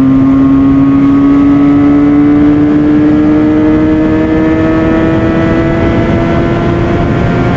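Benelli 302S's 300 cc parallel-twin engine pulling hard at high revs, its pitch rising slowly and steadily as the bike accelerates.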